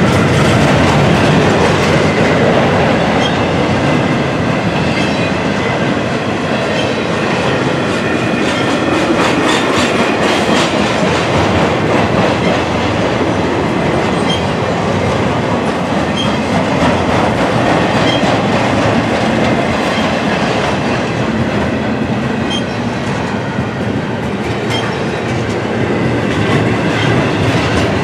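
Double-stack intermodal container cars of a freight train rolling past: a steady, loud rumble of steel wheels on rail with repeated clickety-clack of the wheels.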